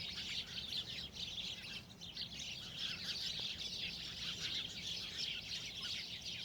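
Dense chorus of many small birds chirping all at once, with a low steady rumble underneath.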